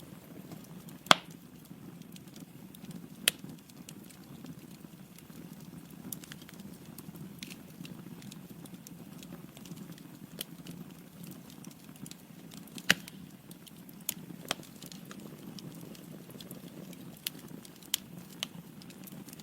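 Log fire burning in a fireplace: a steady low rumble of flames with irregular wood crackles and pops, the sharpest about a second in and at about thirteen seconds.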